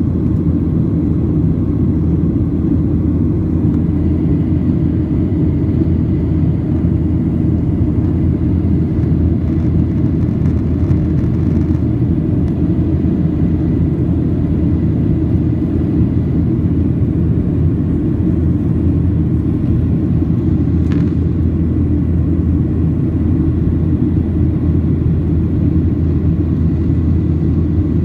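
Jet airliner cabin noise heard from inside the cabin: engines and airflow making a steady low rumble.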